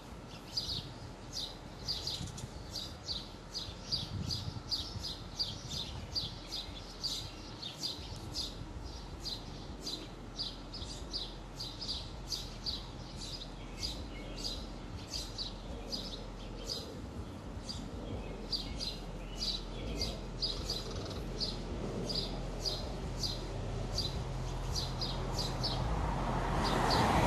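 A small songbird chirping over and over: short, high chirps at about two to three a second, with a low steady hum underneath.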